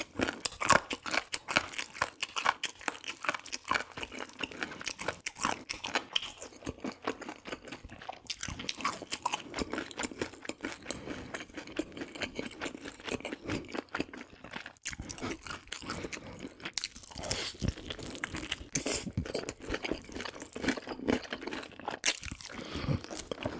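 Close-miked crunching and chewing of crispy fried food, with a crisp crackle at each bite and continuous chewing between bites.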